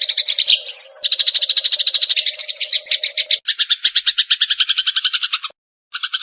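Sparrows in a fight, giving rapid, harsh chattering calls at about a dozen notes a second. The chatter changes in pitch pattern about halfway through and breaks off for about half a second near the end.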